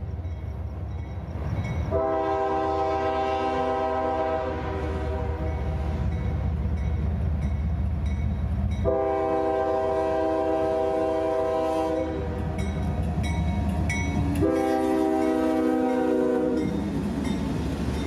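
Freight train horn from six-axle GE diesel locomotives, sounded in a series of blasts beginning about two seconds in. Beneath it runs the steady low rumble of the locomotives' diesel engines, working hard to pull a heavy train.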